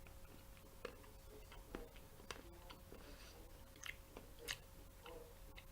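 Faint chewing of a milk chocolate bite: soft, irregular mouth clicks and smacks.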